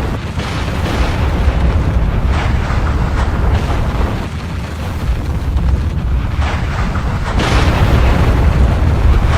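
Volcanic eruption: a continuous deep rumble with repeated surges of blasting, hissing noise, the loudest and longest beginning about seven and a half seconds in.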